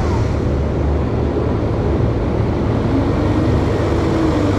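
Loud, steady low rumble of fairground noise, with faint distant voices.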